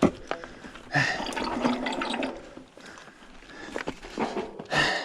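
Mountain bike working over a rocky dirt trail feature: several bursts of tyre-on-rock and dirt noise, with the rider's hard breathing. The attempt stalls for lack of speed.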